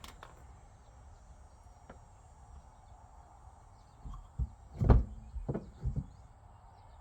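A few dull knocks and thumps about four to six seconds in, the loudest near five seconds, over a low steady background.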